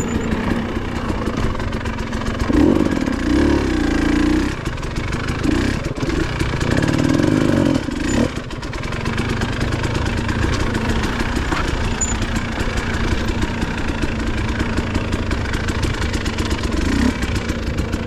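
Dirt bike engine running, revving up louder twice, about three seconds in and again about seven seconds in.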